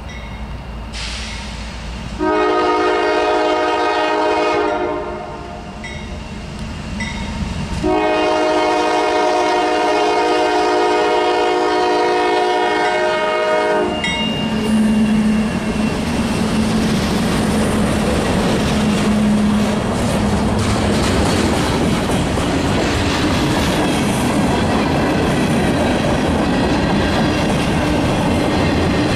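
Freight train passing: the lead CSX GE Evolution-series diesel locomotive sounds its air horn as a chord of several notes in two long blasts, the second about six seconds long, warning of the grade crossing. Then the locomotives go by with engine rumble, and the freight cars roll past with a steady rushing clatter of wheels on rail.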